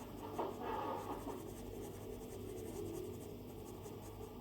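Stylus drawing strokes on an iPad screen: soft scratching, with a few more distinct strokes in the first second, then fainter steady strokes.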